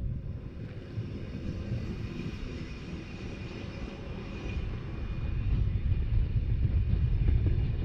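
Rhaetian Railway narrow-gauge train running, heard from on board: a steady rumble of wheels on the rails with a faint high whine, growing louder over the last few seconds.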